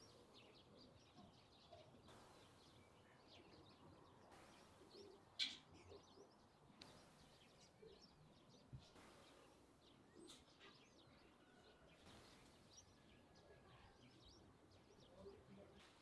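Faint outdoor ambience of small birds chirping, many short high calls, with one brief louder sharp sound about five seconds in.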